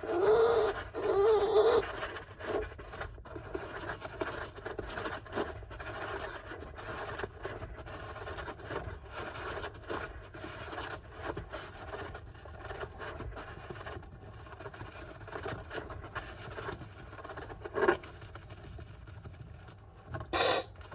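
Golden hamster digging in a sand bath: a continuous run of small scrapes, scratches and patters of sand. A short voice is heard at the start and a brief louder rustle near the end.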